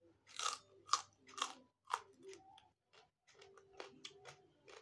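A person biting and chewing raw papaya leaf and stem close to the microphone: about four loud crunches in the first two seconds, then quieter crunching chews.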